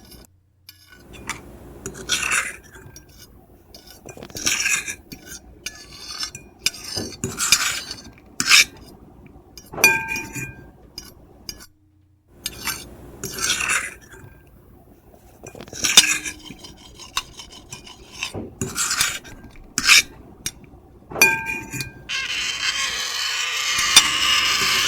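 Metal fork and knife scraping and clinking on a plate in irregular strokes, some leaving the plate ringing. About 22 seconds in, a steady hiss takes over.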